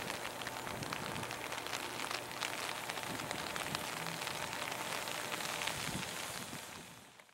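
Steady rain hiss with many small drop ticks. A faint steady tone stops about four seconds in, and the sound fades out near the end.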